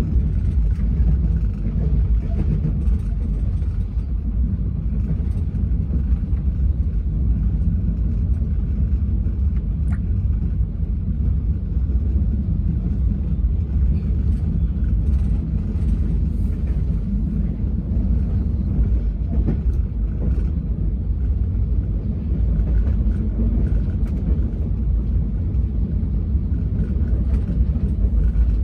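Steady low rumble of an Indian Railways express train running, heard from inside a closed first-class air-conditioned coach.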